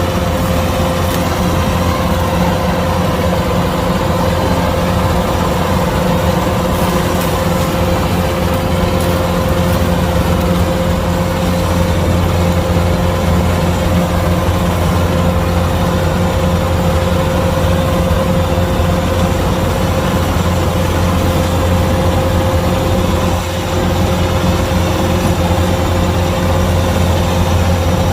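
Kubota DC-105X combine harvester running steadily, its diesel engine's low drone carrying a steady whine above it; the level dips briefly about 23 seconds in.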